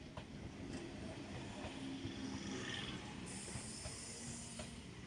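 Indian suburban electric multiple-unit (EMU) local train running past at speed: a steady rumble and rush of wheels on the rails, with a few faint clicks.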